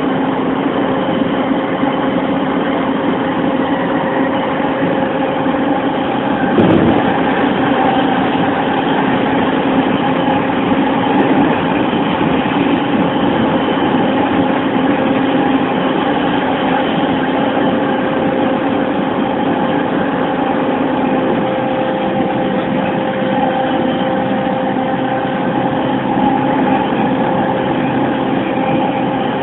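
Interior running noise of an E231 series 1000-subseries electric train, a steady rumble of wheels on rail with a few constant tones from the running gear at even speed. There is a single knock about seven seconds in.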